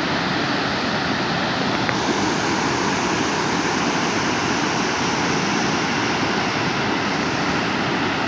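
Waterfall: a steady rush of falling water, with no break, becoming slightly brighter and hissier about two seconds in.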